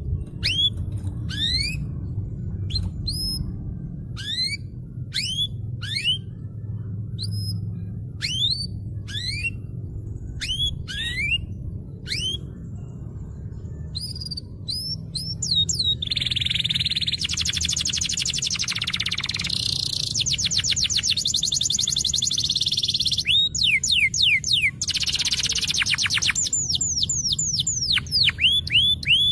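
Domestic canary singing: separate rising whistled notes, one or two a second, then about halfway through a long fast rolling trill, with rising notes again near the end. A steady low hum runs underneath.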